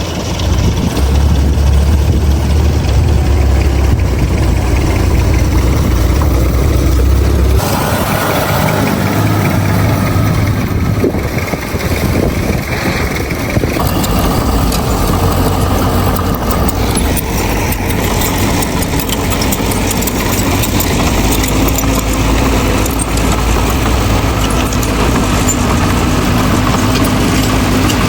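Heavy diesel engines of earthmoving machines, a bulldozer and dump trucks, running under load with a deep rumble. The engine sound changes abruptly about a quarter of the way through, then carries on with shifting pitch.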